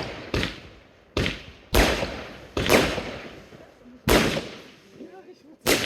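Consumer F2 fireworks going off: about six sharp bangs at uneven intervals, each trailing off before the next.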